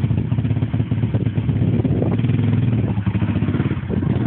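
Pit bike's small single-cylinder engine running with loads of choke on, its exhaust pulsing evenly, picking up a little in the middle and dipping briefly near the end.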